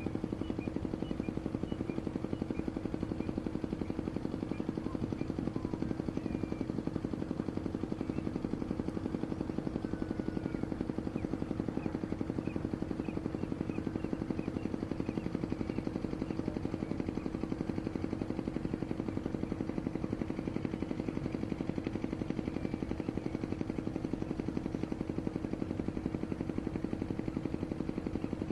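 A steady mechanical drone with a rapid, even pulse and a constant hum, like a motor running. Faint short high chirps of birds sound above it.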